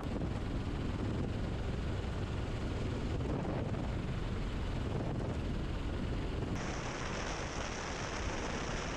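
Helicopter in flight: a steady low rumble with rushing noise. About six and a half seconds in the sound changes abruptly, with a higher hiss added.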